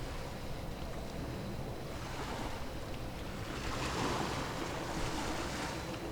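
Sea waves washing against the shore, with one wash swelling louder about four seconds in, over a low steady rumble.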